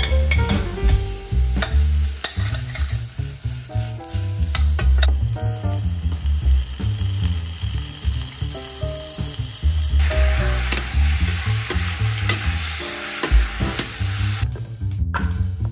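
Onion, garlic and ginger sizzling in hot oil in a stainless-steel pot, with a spatula scraping and tapping the pot. About five seconds in, raw chicken pieces go in and an even frying hiss takes over, growing louder about ten seconds in and breaking off shortly before the end.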